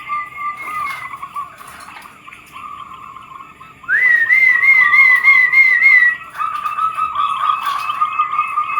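Zebra doves (perkutut) cooing in wavering, trilling phrases that overlap. About four seconds in, a louder call rises sharply and warbles at a higher pitch for about two seconds.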